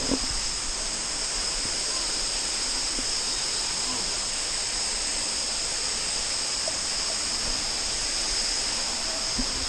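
Waterfall and river water rushing steadily, with a high, steady insect drone above it.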